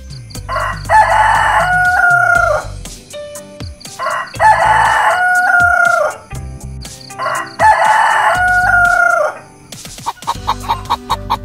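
A rooster crowing three times, each crow about two seconds long and ending in a drawn-out falling note. Near the end, hens clucking in quick repeated notes, about four a second.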